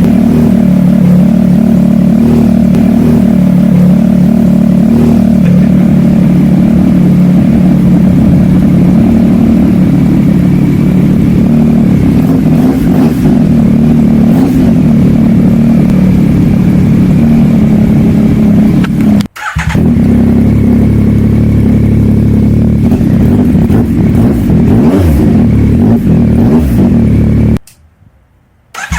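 Yamaha MT-09's 890 cc three-cylinder engine running loud and mostly steady through an aftermarket full exhaust with its dB killer fitted. The sound breaks off briefly about two-thirds through and again for about a second near the end.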